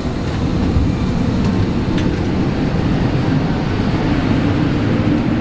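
Steady low mechanical rumble of a parked airliner on the ground, with a few faint clicks.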